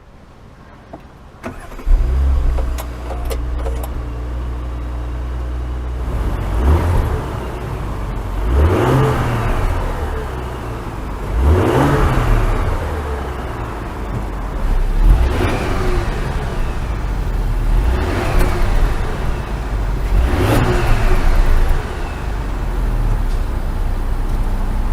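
Audi A8 L engine starting about two seconds in with a loud flare, settling to idle, then revved several times, its pitch rising and falling about every three seconds.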